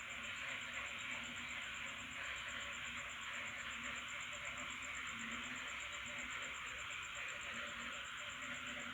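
Night chorus of insects and frogs after rain: a cricket-like insect keeps up a steady, evenly pulsing high trill over a dense insect hiss, while frogs give short low calls every second or so.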